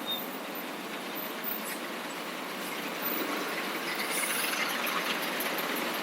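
Steady rush of wind and road noise from a moving motorcycle, growing louder about three seconds in.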